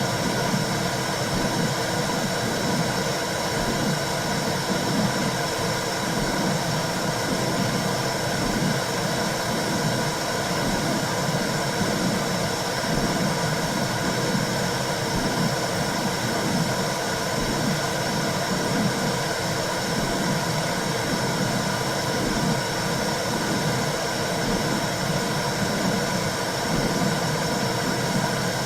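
Womb-sound recording for soothing babies: a steady whooshing noise with a repeating low pulse under it.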